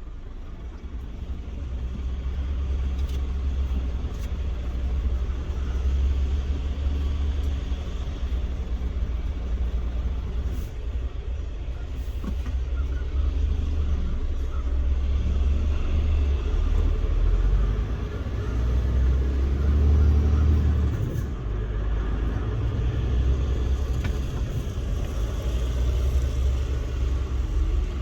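Scania R410 Euro 6 truck's 13-litre six-cylinder diesel engine running with a steady low rumble. It fades in over the first couple of seconds.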